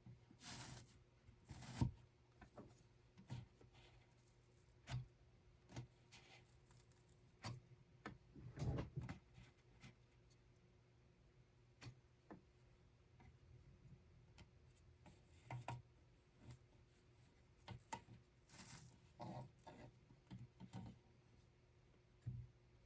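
Scattered soft knocks, clicks and rustles of small objects being handled, at irregular intervals, over a faint steady hum.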